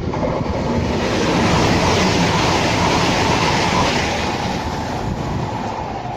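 A train passing on the main line: its rushing noise comes up sharply, is loudest a couple of seconds in, then fades away.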